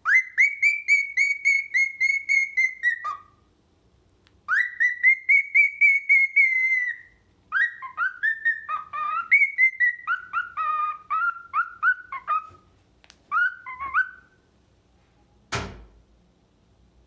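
Cockatiel whistle-singing: two warbling whistled phrases of about three seconds each held near one pitch, then a run of shorter whistled notes that rise and fall. A single sharp click comes about 15 seconds in.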